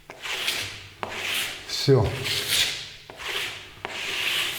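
Rubber scraper drawn in repeated strokes, about one a second, over a wax-coated decorative concrete plaster surface, taking off the excess wax so no streaks are left.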